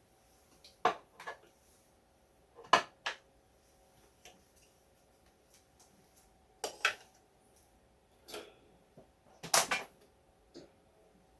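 Scattered light clicks and knocks of tools and parts being handled on a workbench, about nine in all. There are two louder clatters, one around three seconds in and one near the end, over a faint steady hum.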